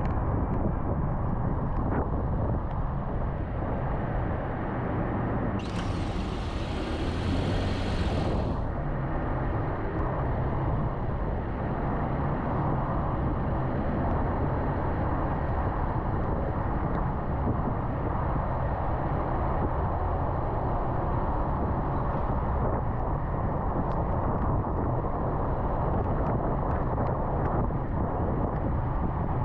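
Steady road noise of a car driving on an interstate highway: tyre and engine hum with wind. About six seconds in, a hiss lasting about three seconds rises over it.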